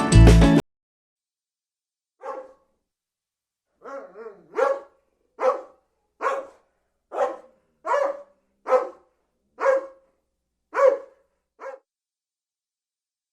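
A dog barking: about a dozen single barks, roughly a second apart, with dead silence between them.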